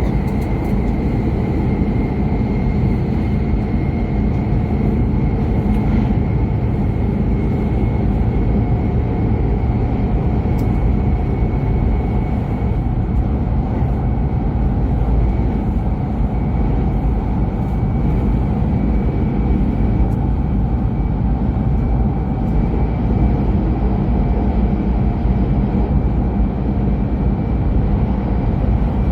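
E5 series Shinkansen running, heard from inside the car: a steady low rumble with a faint, thin high whine above it.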